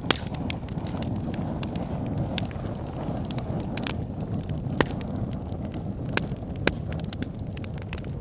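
Bonfire burning: a steady low rush of flame with burning wood crackling irregularly and a few sharper pops.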